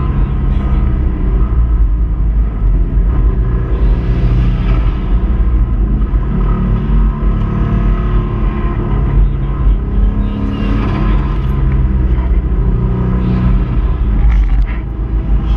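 Subaru Impreza 2.5RS flat-four engine running hard, heard from inside the cabin, with tyre and road rumble; the engine note rises and falls a few times. The engine's connecting-rod bearing is failing.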